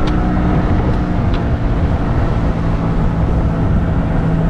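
A motor running steadily under way, with a constant low hum and noise of travel.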